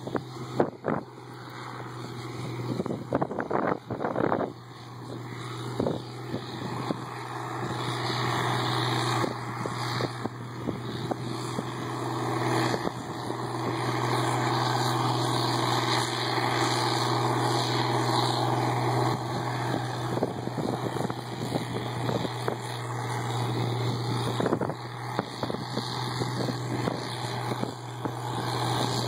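Case IH 1680 combine running while harvesting soybeans: a steady low engine drone under a broad noisy rush, growing louder over the first half. A few sharp knocks come in the first several seconds.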